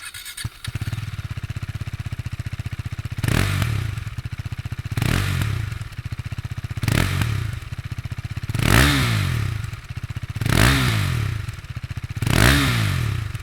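2017 KTM RC 390's 373 cc single-cylinder engine through its side-mounted exhaust, idling steadily and then revved six times in quick blips about every two seconds, each rising and falling back to idle.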